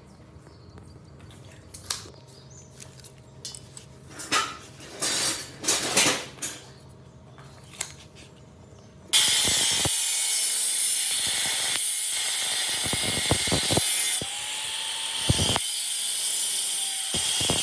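A few light knocks and clicks, then about nine seconds in a metalworking tool starts suddenly and runs loud and steady, a hissing noise with a faint whine under it.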